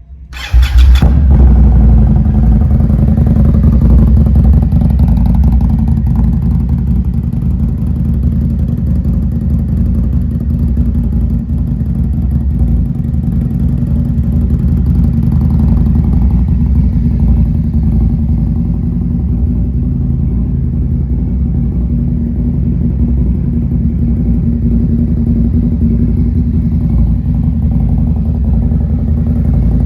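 A 2023 Indian Scout Bobber Twenty's 1133 cc V-twin, breathing through a Freedom 2-into-1 exhaust, starts up about half a second in and then idles steadily.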